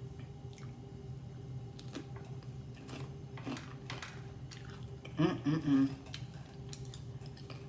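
Close-miked chewing and wet mouth sounds of someone eating lobster meat, with scattered small clicks, over a steady low background hum. A short hummed vocal sound comes about five seconds in.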